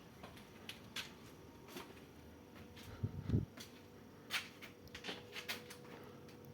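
Scattered light clicks and knocks, with a duller thump about three seconds in, over a faint steady hum.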